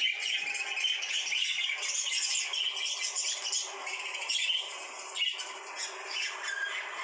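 Lovebirds chattering and squawking in a dense, unbroken stream of shrill calls.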